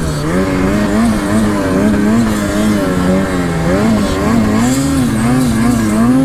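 Snowmobile engine being ridden hard, its revs rising and falling over and over as the sled climbs through snow.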